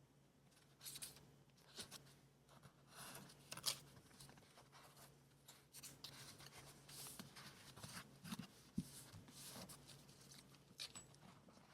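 Faint, irregular rustling and crinkling of paper being handled for a scrapbook journal page, with a few sharp ticks and light scraping.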